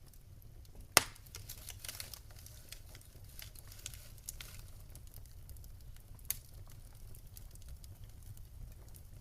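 Wood fire crackling in a fireplace: scattered small crackles and snaps over a low steady rumble, with one sharp loud pop about a second in and a smaller pop around six seconds.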